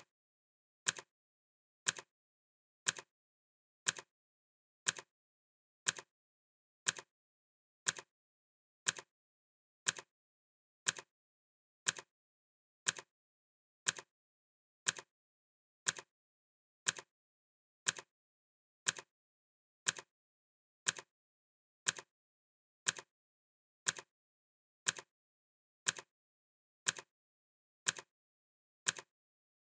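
Clock ticking sound effect: one short, sharp tick every second, evenly spaced, with silence between ticks.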